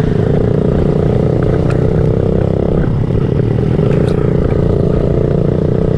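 Small off-road motorcycle engine running steadily under throttle, easing off briefly a couple of times, with a few sharp clicks or knocks.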